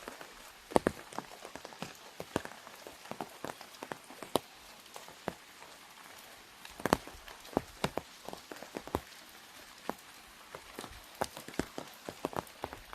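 Raindrops tapping on an umbrella overhead in sharp, irregular ticks of varying loudness, over a faint steady hiss of rain.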